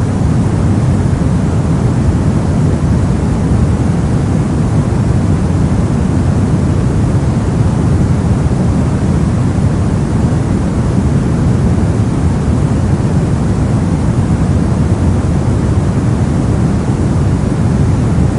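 Brown noise: a steady, even rumble of random noise weighted heavily toward the low end, with no changes or events.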